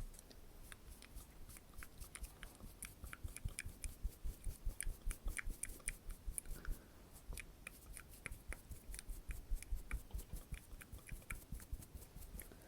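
Close-miked ASMR clicks and taps, several a second, in an irregular run that thins out near the end, with soft low thuds underneath.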